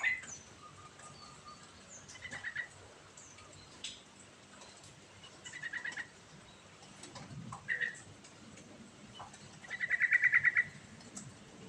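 Yellow-vented bulbul (cucak trucuk) singing: short bubbly phrases every few seconds, with the loudest, a quick rattling trill, about ten seconds in.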